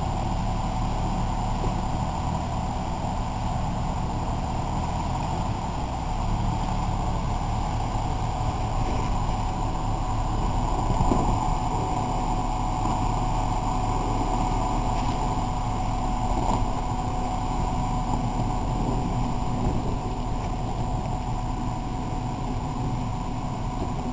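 Jeep Cherokee XJ's engine running steadily at low revs as the Jeep eases back down a rocky hill it could not climb: a constant low drone with no revving.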